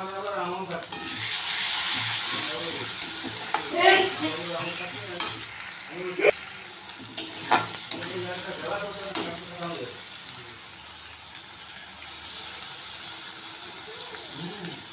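Spiced oil sizzling and frying in a kadai while a metal spatula stirs and scrapes the masala, clicking sharply against the pan several times.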